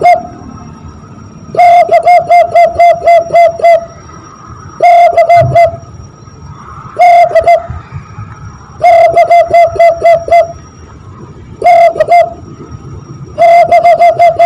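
Hand-blown imitation of a zebra dove (perkutut) call, made by blowing into cupped hands. The coo is repeated in six phrases, each a quick run of a few to about eight short, even-pitched notes with brief pauses between phrases.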